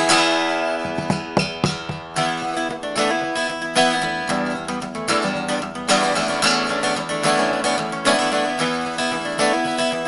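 Instrumental passage of a song: strummed acoustic guitar with a steady rhythm.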